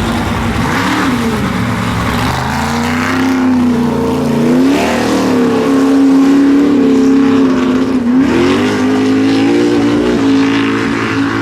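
Mega truck engine running at high revs, its pitch rising and dipping several times as the throttle is worked during a mud bog run.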